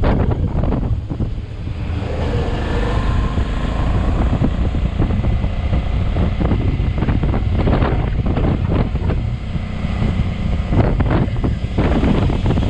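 Heavy wind buffeting on the microphone of a moving motorcycle, with the bike's engine running underneath.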